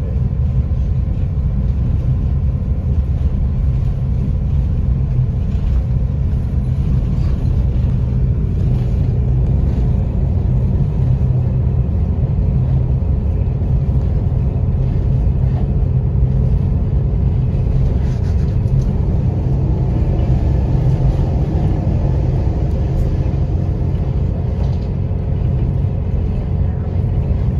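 Steady low rumble of a moving passenger train, heard from inside the coach: the train running along the track at an even pace.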